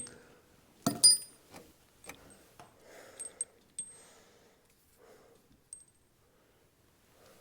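Metal hand tools and parts being handled and set down: a sharp ringing metal clink about a second in, followed by a few lighter clinks and taps.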